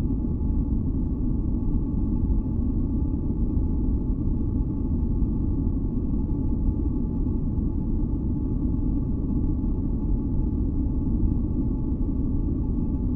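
Steady synthesized sleep noise, a deep rumbling hiss weighted to the low end, with faint steady tones held above it.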